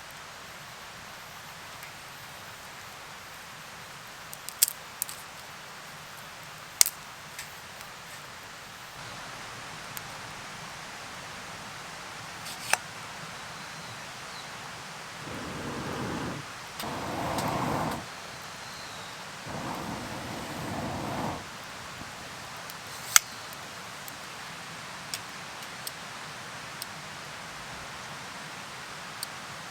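Steady hiss of rain, with scattered sharp ticks and three brief, louder noises about halfway through.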